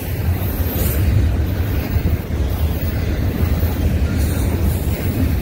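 Double-stack intermodal freight train's container well cars rolling past close by: a steady, low rumble of steel wheels on the rails.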